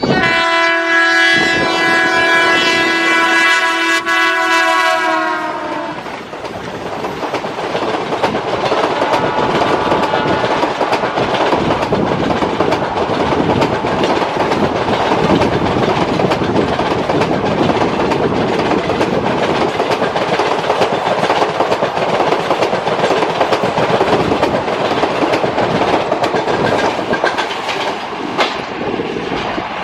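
Diesel-hauled express train sounding a long multi-tone horn for about six seconds, its pitch dipping slightly just before it stops. The train then runs past with a steady rumble and clickety-clack of wheels over rail joints.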